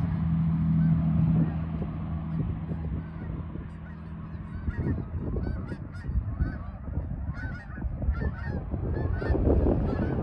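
A flock of geese honking, many short overlapping calls coming in from about halfway through, over a steady low rumble.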